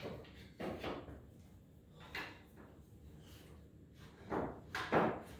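Knife scraping and chipping the hardened glue and felt layer off the end of a wooden piano keystick, in several short strokes with the loudest near the end.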